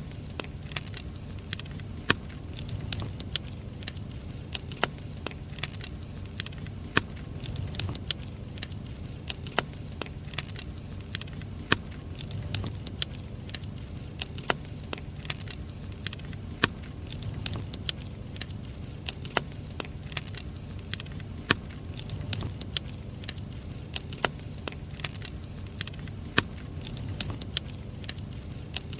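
Firewood burning in an open fire, crackling with frequent sharp, irregular pops over a low rumble.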